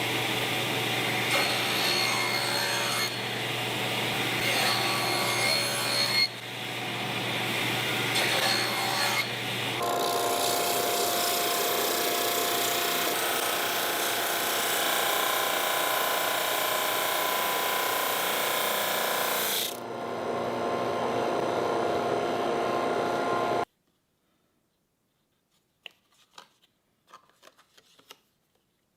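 A woodworking power tool running and working wood, steady and loud, its tone shifting a few times before it stops abruptly. A few faint taps follow in near silence.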